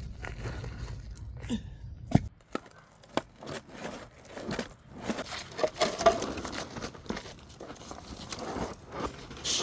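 Ice being shoveled: a shovel scraping and crunching through thick ice and breaking chunks, in irregular crunches, scrapes and knocks. A low rumble stops about two seconds in.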